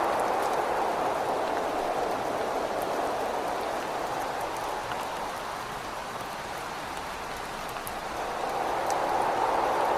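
Steady rain with gusting wind, the rush easing in the middle and swelling again about nine seconds in, with faint scattered drop ticks.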